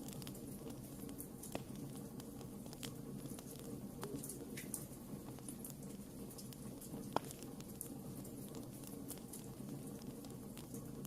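Wood campfire burning: a steady low flame rumble under frequent small crackles and snaps, with one louder pop about seven seconds in.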